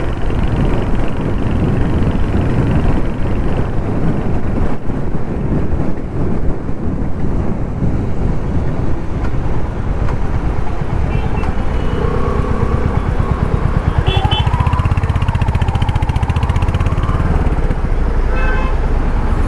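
Royal Enfield Hunter 350's 350cc single-cylinder engine running steadily under way in city traffic. In the second half, other vehicles' horns sound briefly a few times.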